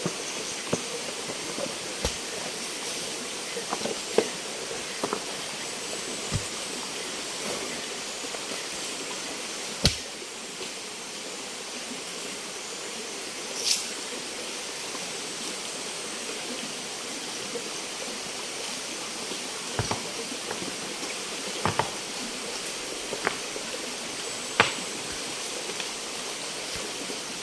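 A stream rushing steadily, with about a dozen sharp knocks and clinks scattered through it as a wok and plates are washed.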